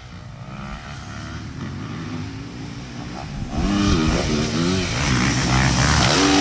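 A 450 four-stroke motocross bike ridden hard on the track, faint at first and then much louder from a little past halfway as it comes close, its revs rising and falling again and again under throttle.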